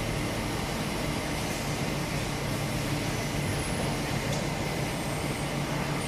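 CNC lathe running: a steady machine hum with a low drone and a faint constant high whine, unchanging throughout.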